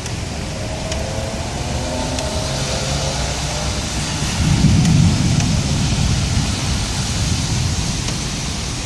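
Heavy thunderstorm rain pouring steadily, with a low rumble of thunder swelling about four seconds in and fading over the next couple of seconds.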